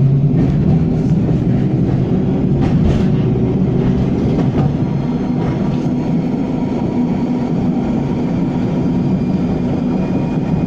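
W6-class tram running along the track, heard from inside the car: a steady low rumble with a hum, broken by a few sharp clicks and knocks from the wheels and body.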